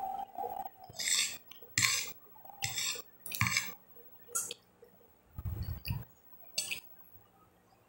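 Close-up eating sounds: a run of short, wet chewing and mouth noises on boiled chicken and cabbage, with a metal fork clinking and scraping on a glass plate. Near the end there is a dull low bump as the forkful goes into the mouth.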